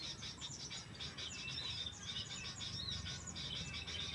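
Several small birds chirping and calling, with many quick, overlapping short notes and little up-and-down whistles, over a low outdoor hum.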